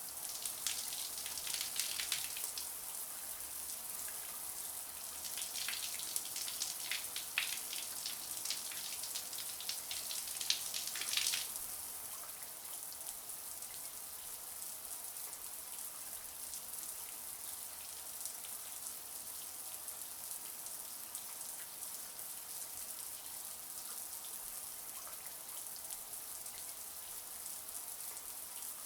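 Running shower spray, a steady high hiss of falling water. For about the first twelve seconds it is broken by irregular louder splattering, then it settles to an even hiss.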